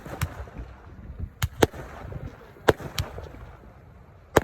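Consumer fireworks going off: a run of sharp bangs, mostly in pairs a fraction of a second apart, with crackling and echo between the reports.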